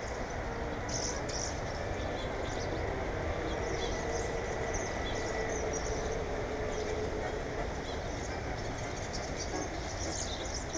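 Small birds chirping in short, scattered calls over a steady low rumble, with a faint held tone through the middle of the rumble.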